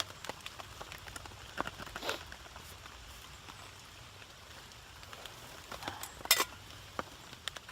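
Scattered crackles and sharp pops from a wood campfire over a faint steady hiss, the loudest pop coming about six seconds in.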